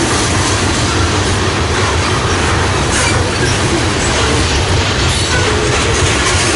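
Freight train cars rolling past close by: a steady rumble of wheels on rail, with a few short, faint wheel squeals.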